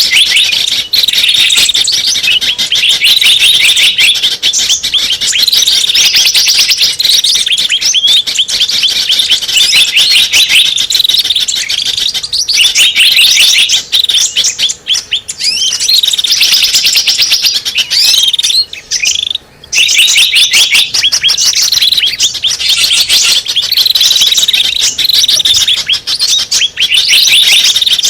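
Dense, rapid high chirping and twittering of small birds, a lure call (suara pikat) used to draw small birds in. It breaks off briefly about two-thirds of the way through.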